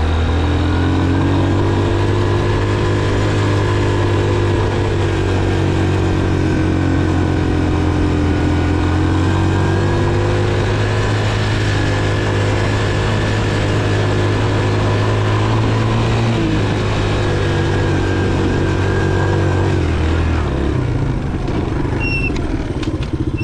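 Honda TR200 Fat Cat's single-cylinder four-stroke engine running at a steady cruise on a dirt road, its note drifting up and down slightly with the throttle. About twenty seconds in, the throttle closes and the engine note drops, with a few light clicks near the end.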